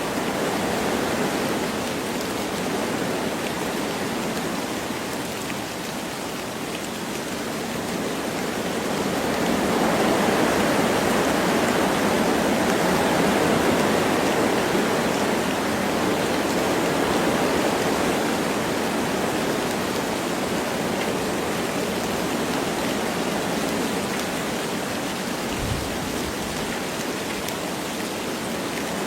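Wind rushing through forest trees with light rain falling, a steady rushing hiss that swells for several seconds about a third of the way in, then eases.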